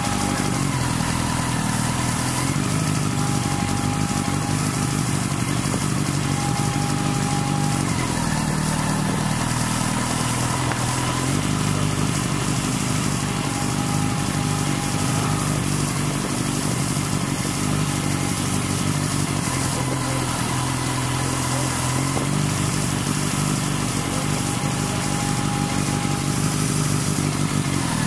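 Motorcycle engine running steadily while riding, its pitch rising and dropping a little with the throttle, over a constant rush of noise.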